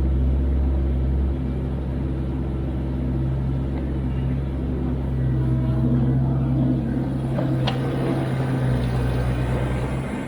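Kubota KX121-3 mini excavator's diesel engine running steadily with a low drone, the pitch and load easing slightly a little over a second in, with a single sharp knock about three-quarters of the way through.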